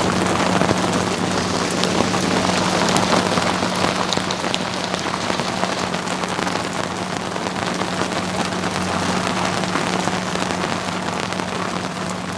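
Heavy rain falling on a sailing yacht, a dense hiss of rain with many sharp drop hits on the deck and clear windows, over a steady low hum.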